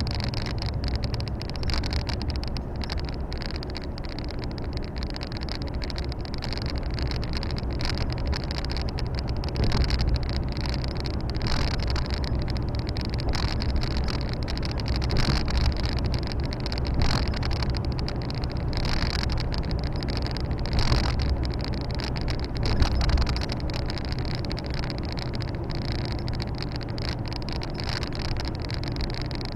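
Volvo FH 460 truck's six-cylinder diesel engine running steadily under way, heard inside the cab with tyre and road noise, and a few short knocks and rattles along the way.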